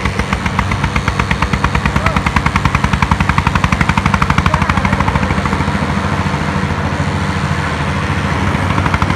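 Single-cylinder Eicher tractor diesel engine working hard under load in a tug of war, a loud, rapid chugging of about ten exhaust beats a second. The beats grow sharper after a couple of seconds.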